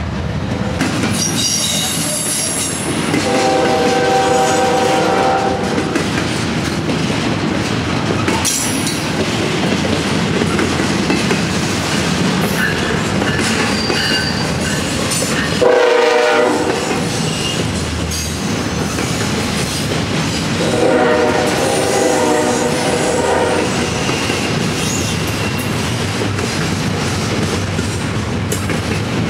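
Double-stack intermodal freight train passing close by, with a steady rumble and clatter of wheels over the rail joints. A diesel locomotive horn sounds three times over it: a long blast about three seconds in, a short loud one about halfway through, and another long one about three-quarters of the way through.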